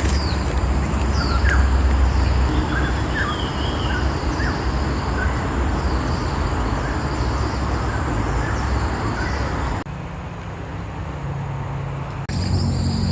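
Outdoor forest ambience: a steady low rumble, scattered bird chirps, and a very high insect call pulsing evenly a little under twice a second. About ten seconds in it cuts abruptly to a quieter stretch, then to a high insect buzz.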